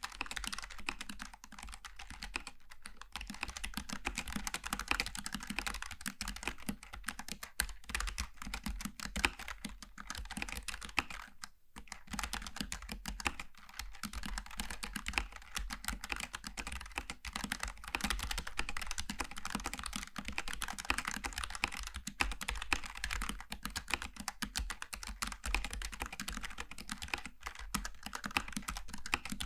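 Fast, continuous typing on a Logitech G915 TKL low-profile mechanical keyboard with tactile switches: a dense stream of key clicks, with a brief pause about twelve seconds in.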